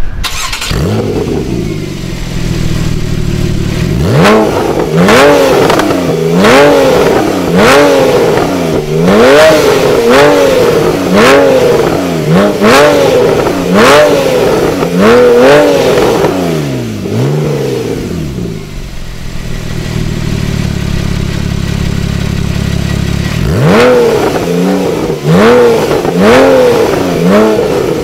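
Porsche 991 Carrera's flat-six engine through an M&M aftermarket exhaust, revved in quick blips about once a second. The blips come between spells of steady idle, with a sharp snap at the top of each rev.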